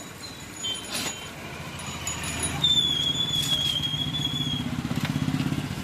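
A motor vehicle engine running close by on the street, its low note building from about halfway and pulsing rapidly near the end. A thin, high, slightly falling whistling tone sounds over it in the middle.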